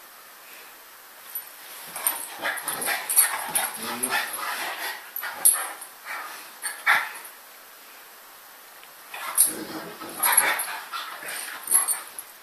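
Large dogs whimpering and grunting as they cuddle and tussle, in two bouts of irregular sounds: one from about two seconds in, the second near the end.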